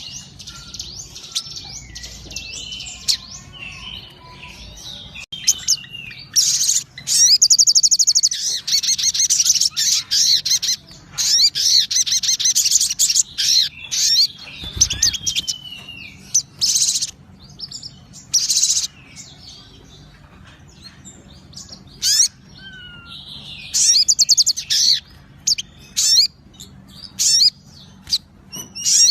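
Ruby-cheeked sunbird (sogon) singing vigorously: rapid, high-pitched chattering trills and twitters in bursts, the longest and loudest stretch about a quarter of the way in, then shorter outbursts with brief lulls between.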